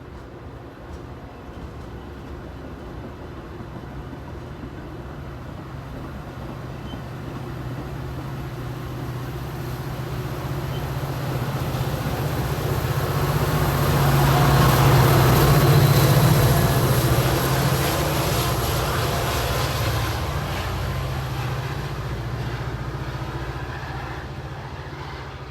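A train passing by: a low steady engine hum and rumbling wheel noise build up, are loudest a little past the middle, then fade away.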